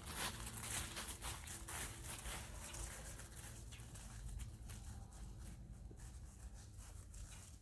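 Footsteps crunching through dry fallen leaves, a step about every half second, growing fainter in the second half, over a low rumble of wind or handling on the microphone.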